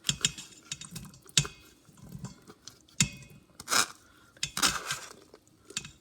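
A spoon clinking and scraping against a dish, with short wet sliding sounds, as drained canned beans are measured out. The clinks come at uneven moments, the sharpest about a second and a half and three seconds in.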